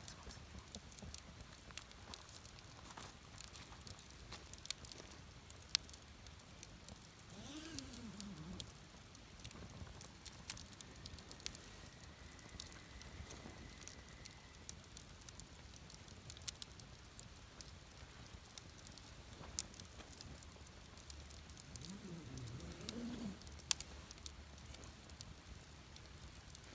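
Wood campfire crackling with scattered sharp pops. A dove coos twice, about 8 seconds in and again near the end.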